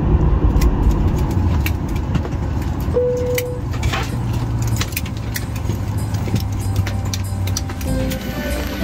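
Boeing 737 cabin after landing: a steady low hum with a scatter of clicks and rattles, typical of passengers unbuckling seatbelts and opening overhead lockers. A short single tone sounds about three seconds in.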